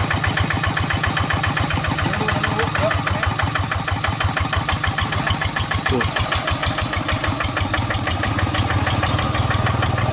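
Tractor engine running steadily, its firing heard as a rapid, even pulse.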